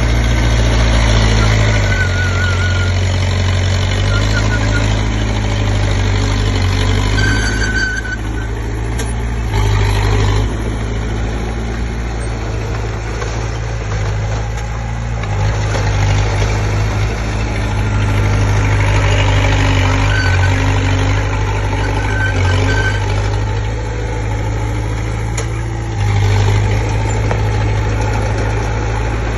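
Komatsu D20P bulldozer's diesel engine running under changing load, its steady low drone swelling and easing as it works, with a few brief high squeaks.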